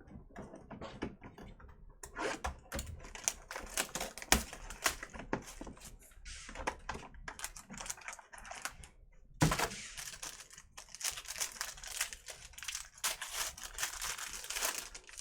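Fast, light clicking and rustling of hands at work at the table, growing busier and louder about halfway through.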